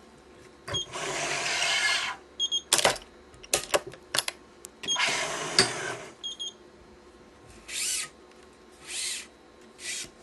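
A Yonex ES5 Pro electronic stringing machine tensioning cross strings on a badminton racket. Its tensioner motor runs twice, for about a second each time, with sharp clicks of the clamps and tools in between. Near the end come three short swishes of string being drawn through the mains.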